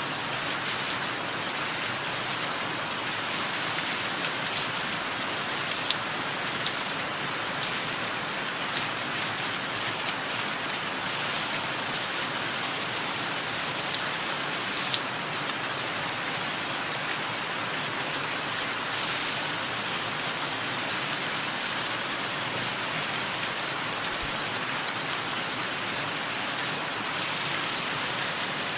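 Steady rain with birds chirping over it: short, high, downward-sweeping calls in clusters of two or three every few seconds.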